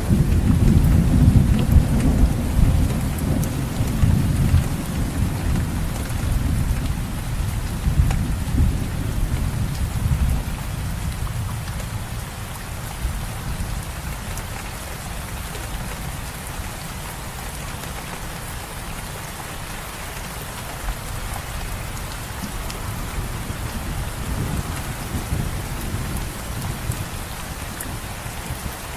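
Steady rain falling, with a low rumble of thunder through roughly the first ten seconds that slowly fades away.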